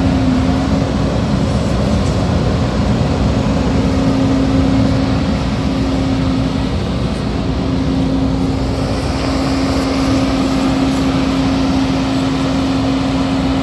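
2011 Case IH Magnum 235 tractor's diesel engine running steadily, with a strong constant tone over the engine noise.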